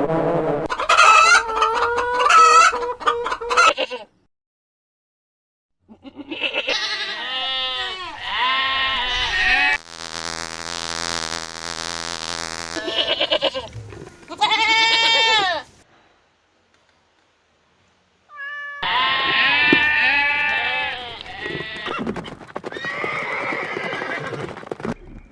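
Farm animals bleating in several short, separately cut clips of wavering calls, with two silent gaps, about four and about sixteen seconds in.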